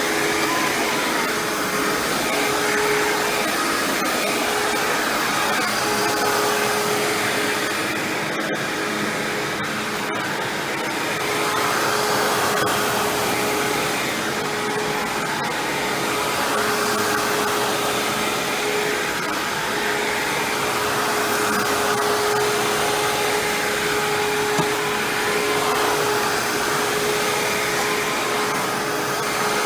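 Hoover WindTunnel self-propelled bagless upright vacuum running continuously, a steady rushing of air over a constant motor whine, swelling and easing slightly as it is worked over the floor.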